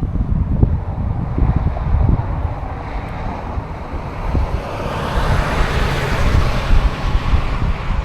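Wind buffeting the microphone in gusts. From about halfway through, the rushing noise of an approaching vehicle swells up and holds.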